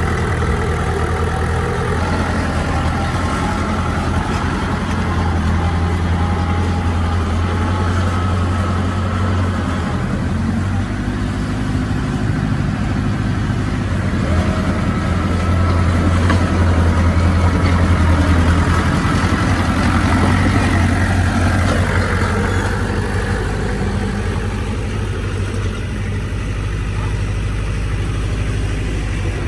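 Heavy diesel earthmoving machinery running steadily, with a low engine hum that swells a little about halfway through as it works harder. Fainter higher tones waver above the hum.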